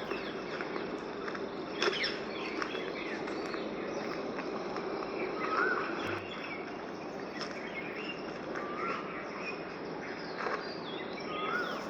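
Short rising bird chirps, one every few seconds, over a steady din of insects.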